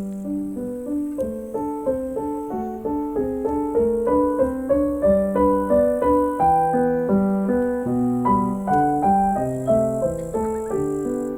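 Background piano music: a gentle, flowing melody of quickly repeated notes.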